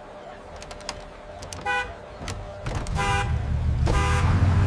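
Monster truck horn honked three times, a short toot and then two longer blasts, over a loud low rumble that starts at the second honk.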